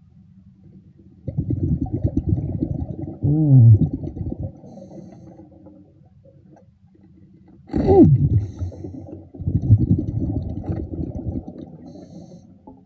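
Scuba diver's exhaled air bubbling out of the regulator underwater: two muffled, low rumbling bursts of a few seconds each, with a brief falling tone inside each burst.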